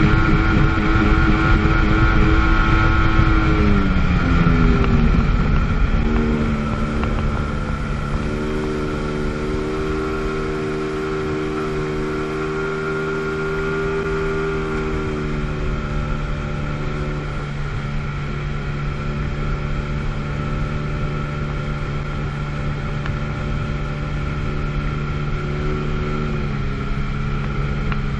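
Two-stroke jet ski engine slowing from speed, its pitch falling over a couple of seconds about three seconds in. It then runs steadily at a low, even speed, with a slight further drop in pitch near the end.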